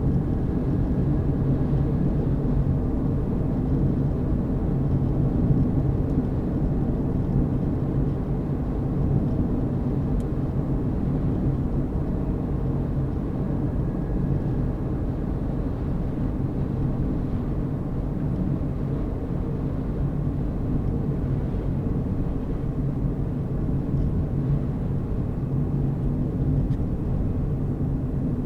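Car driving at a steady pace: a continuous low rumble of engine and tyre noise on the road.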